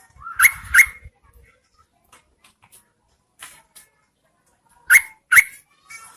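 Yellow-vented bulbul calling: two quick, sharp, rising notes near the start, then another pair about five seconds in, with faint scattered ticks between.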